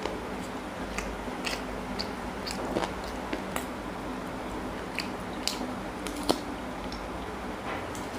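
Close-up mukbang eating sounds: wet chewing and biting as a man eats chicken curry by hand, with sharp mouth clicks and smacks every second or so. A faint steady hum runs underneath.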